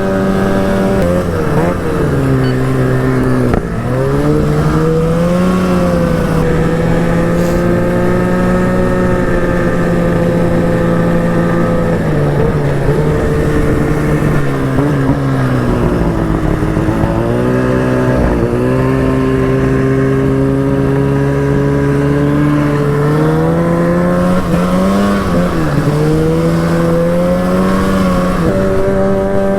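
Arctic Cat snowmobile engine running under way, holding steady revs for long stretches. The revs drop and climb back a few times: about four seconds in, several times in the middle, and again about 25 seconds in.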